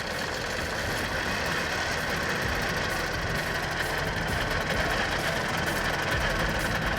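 Vikhr-30 two-stroke outboard boat motor, mounted in a car, running steadily at idle.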